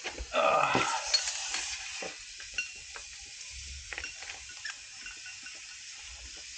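Hand tools working on a Range Rover L322's front CV axle: a louder metallic scrape about half a second in, then scattered light clinks and clicks of metal on metal.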